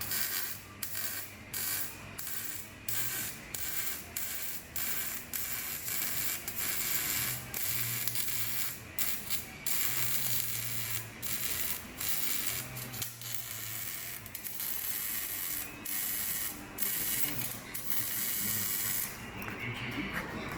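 Metalworking tool on a car's exhaust pipe, a harsh hissing crackle that keeps stopping and starting in short runs with brief gaps, over a low hum.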